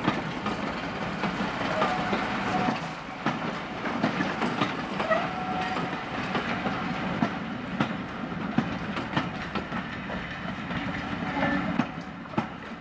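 Passenger coaches of a locomotive-hauled train rolling past, their wheels clicking and knocking over the rail joints under a steady rumble, with a few brief squeaks from the wheels.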